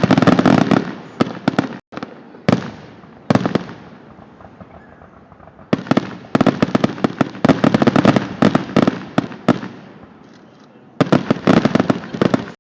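Fireworks going off in dense, rapid crackling volleys of sharp cracks. A loud volley dies away about a second in. Two single cracks follow, then a long volley from about six to nine and a half seconds, and another near the end.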